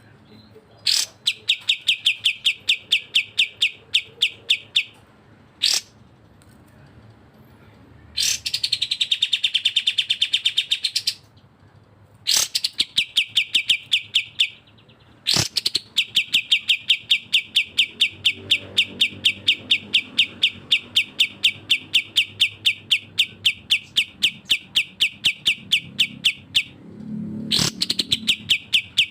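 A songbird singing long runs of rapid, evenly repeated sharp notes, several a second, in bursts of a few seconds broken by short pauses.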